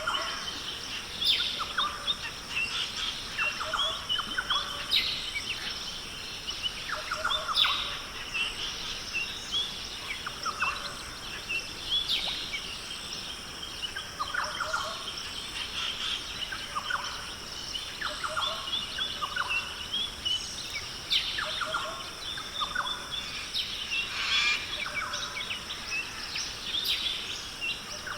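Australian rainforest ambience: many birds calling, with frequent short chirps and downward-sweeping calls every second or so, over a steady high-pitched hum.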